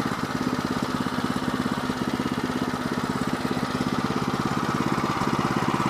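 Woodland Mills HM122 sawmill's gas engine running at a steady speed with an even pulsing beat, the mill between cuts while the saw head is set for the next board.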